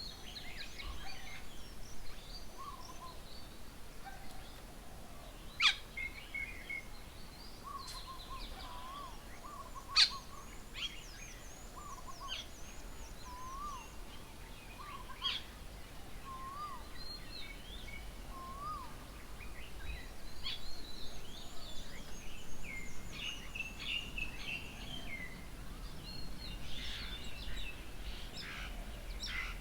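Garden birds calling and chirping together. A low hooked call repeats about once a second through the middle, under a scatter of higher chirps and whistles, with three very loud sharp calls about half a second before the start, about six seconds in, and about ten seconds in. The high chirping gets busier in the second half.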